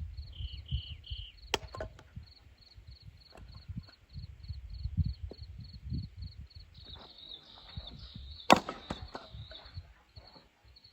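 A cricket chirping steadily, about four short high chirps a second, over a low rumble and a few sharp knocks, the loudest about eight and a half seconds in.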